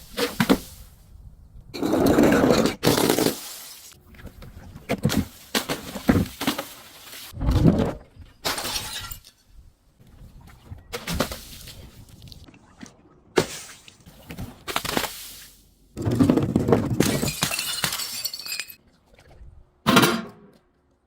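Glass shattering again and again: a series of separate crashes with ringing, tinkling debris, several of them long smashes. One heavy low thud comes about halfway through.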